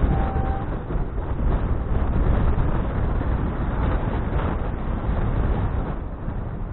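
Wind buffeting a helmet or handlebar action camera's microphone while cycling: a steady, loud, low rumbling rush with no breaks.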